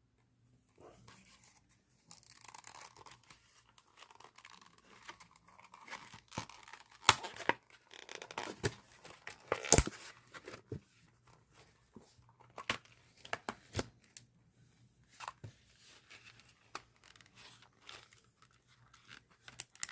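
Packaging of model railroad privacy-fence packs being handled and torn open: quiet, irregular rustling and tearing with scattered sharp clicks and snaps, the loudest about seven and ten seconds in.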